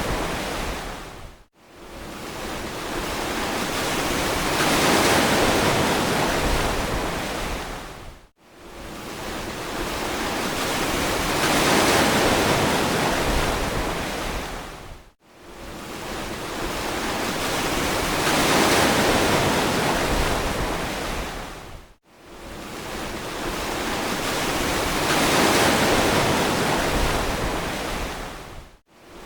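Ocean surf: waves washing in and draining away, each one swelling up and fading out about every seven seconds, with a brief drop almost to silence between waves.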